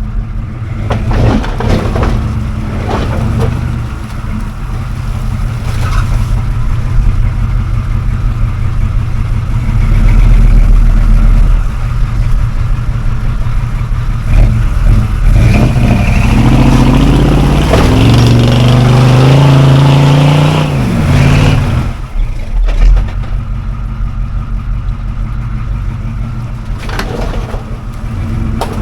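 An off-road vehicle's engine running under load while it crawls over a trail obstacle. About two-thirds of the way through the revs climb for several seconds, then drop sharply.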